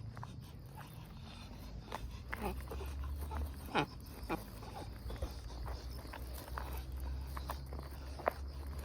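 Shiba Inu whining and yipping in short, excited bursts, impatient for a treat. The noises cluster about two to four seconds in, with one more sharp yip near the end, over a steady low hum.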